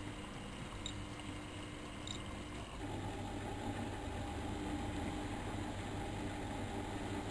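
Miele Novotronic Meteor 2200 washing machine running a 95 °C boil wash. A steady low hum with two faint ticks gives way about three seconds in to a louder steady hum with a whine, as the drum motor starts turning the drum.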